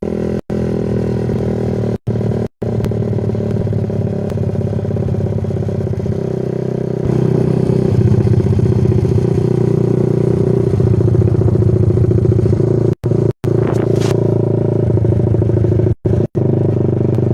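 Yamaha Vixion's single-cylinder engine running at a steady pitch through a Kou Mahachai aftermarket exhaust; it gets louder about seven seconds in. The sound cuts out for a split second several times.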